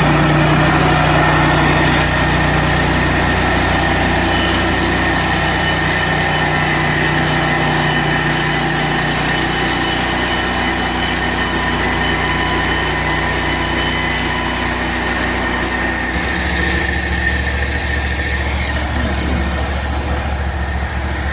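Portable band sawmill running steadily, its gas engine driving the band blade through a log. About sixteen seconds in, the engine note and low hum change.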